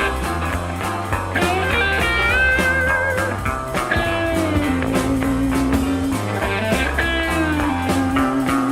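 Blues-rock band recording: electric guitar playing lead lines with bent notes over bass and drums.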